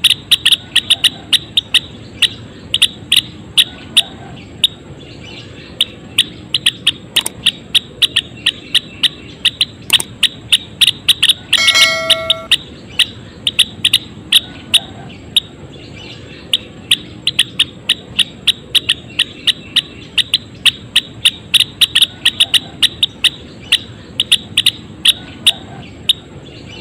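Gelatik wingko (Indonesian songbird) calling in a fast, sharp run of chips, several a second, without a break. About twelve seconds in, a single louder, drawn-out call of about a second cuts across the chipping.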